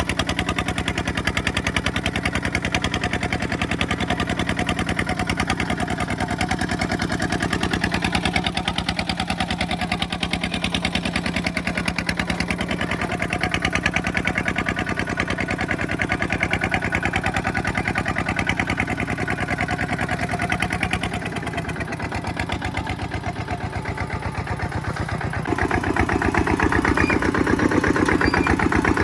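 Kubota two-wheel tractor's single-cylinder diesel engine running with rapid, even firing pulses. About three-quarters of the way through it eases briefly, then picks up and runs louder.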